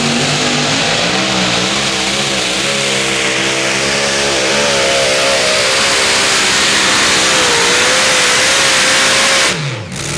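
Pulling tractor's engine running flat out under load, its pitch wavering, then cut off abruptly near the end with a short falling note as it winds down.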